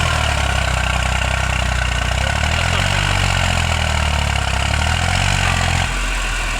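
Eicher 485 tractor's three-cylinder diesel engine running with a steady low note, no revving.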